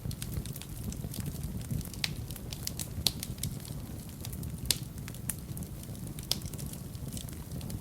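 Fire in a fireplace crackling, with irregular sharp pops over a steady low rumble of the flames; a few louder pops stand out.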